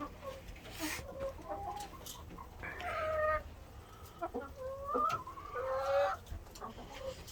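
Chickens clucking, a string of short calls, some rising and some falling in pitch.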